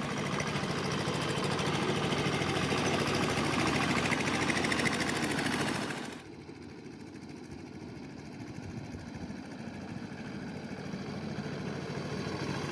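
Restored rice-mill diesel engine running steadily with a knocking beat. It turns suddenly quieter about six seconds in, then slowly grows louder again.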